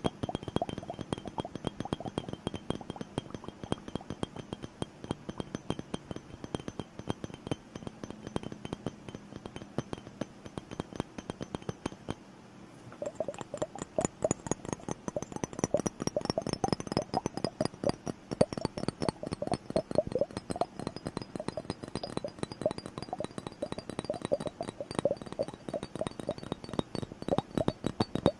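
Fast, continuous fingertip tapping on a plastic bubble timer (liquid motion timer), with a short lull about twelve seconds in, after which the tapping comes back louder.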